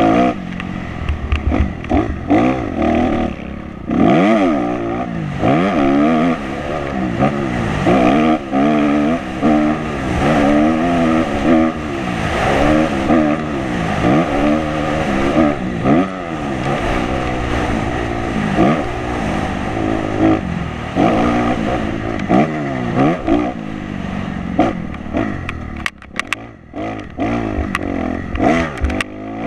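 Dirt bike engine under race load, its pitch rising and falling over and over as the rider accelerates, shifts and rolls off through the track's turns. Near the end the throttle closes briefly and there is a run of short rattles.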